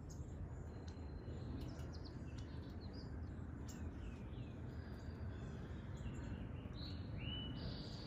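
Small backyard birds calling: many short chirps and quick down-slurred notes, with a louder call about seven seconds in. Behind them runs a steady low rumble.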